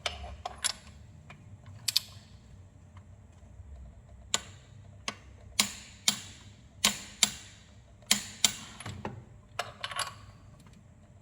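Sharp metallic clicks of a wrench on the camshaft sprocket bolts as they are turned the final 55 degrees, about a dozen of them, irregularly spaced and some in quick pairs.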